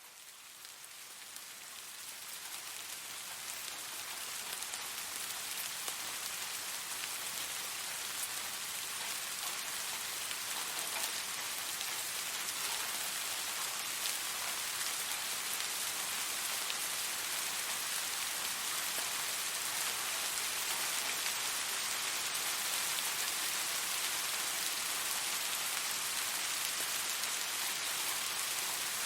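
Steady rain falling on a surface, a dense hiss with fine patter of individual drops, fading in over the first few seconds.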